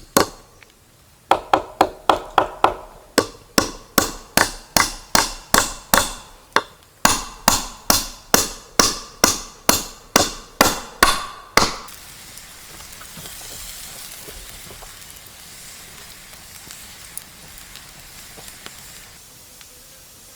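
A tool striking repeatedly: sharp, ringing chops or hammer blows, about three a second, with a short pause midway. They stop about twelve seconds in, and a faint steady hiss remains.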